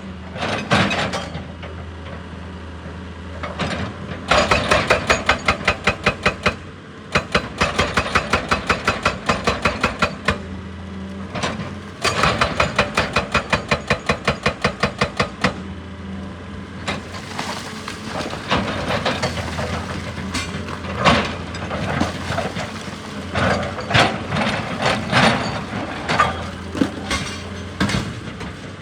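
Excavator-mounted hydraulic breaker hammering rock in rapid runs of about eight blows a second, stopping and restarting three times, over the machine's steady engine hum. In the second half the hammering gives way to scattered irregular knocks and clanks.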